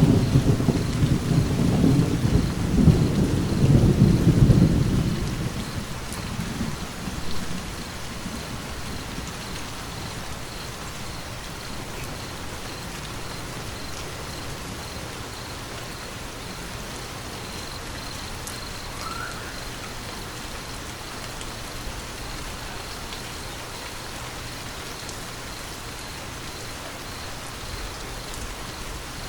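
Steady rain falling, with a loud rolling thunder rumble at the start that dies away after about six seconds, leaving the even hiss of rain.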